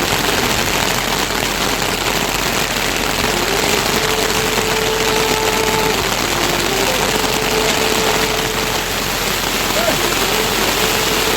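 Steady heavy rain, a dense even hiss.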